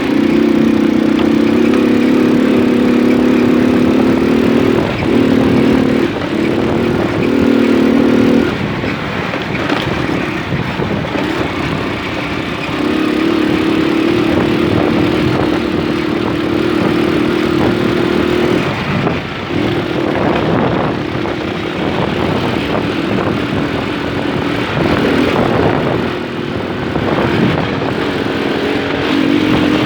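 Small moped engine running under way, its steady engine note over continuous wind and road noise. The engine note fades about eight seconds in, comes back steadier a few seconds later, and dips again now and then near the end.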